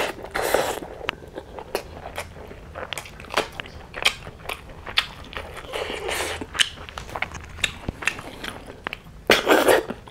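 Close-miked eating sounds: chewing a mouthful of rice and snail curry by hand, with many sharp clicks and short wet smacks. Near the end there is a louder, longer noisy burst as a snail shell is held to the lips and the meat is sucked out.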